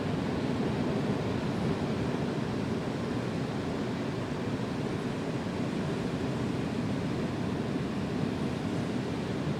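Ocean surf breaking continuously on the beach, a steady wash of noise with wind mixed in.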